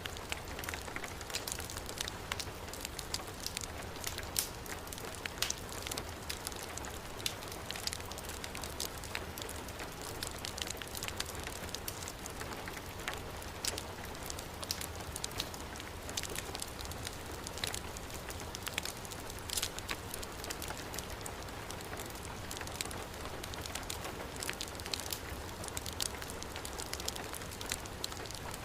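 Heavy rain falling steadily, mixed with a wood fire crackling, its sharp pops coming irregularly every second or so.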